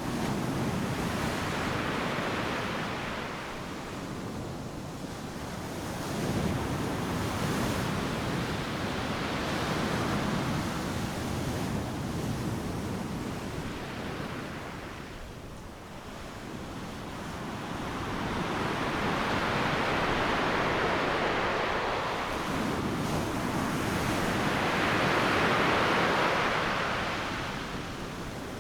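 Ocean waves breaking on a beach: a rushing surf noise that swells and fades in slow surges every several seconds, the biggest surge coming near the end.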